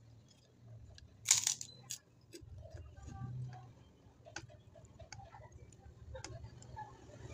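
Close-up eating sounds of fried noodles: wet chewing with small mouth clicks and light chopstick taps, and one loud sharp crackle a little over a second in.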